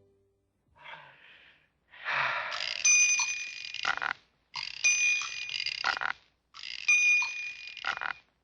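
A bell ringing in repeated bursts, each about a second and a half long with a short gap between them and ending in a knock. There are three such rings after a brief faint rattle about a second in.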